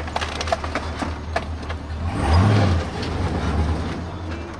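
Monster truck's Chevrolet V8 engine running with a low drone, with the truck knocking and rattling in the first second and a half. The engine swells briefly in revs about two seconds in.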